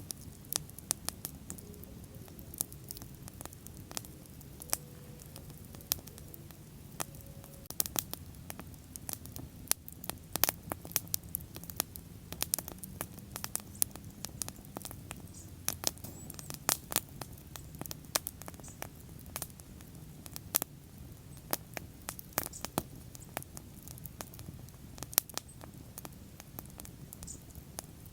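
Wood bonfire burning: a steady low rush of flames under frequent irregular sharp crackles and pops.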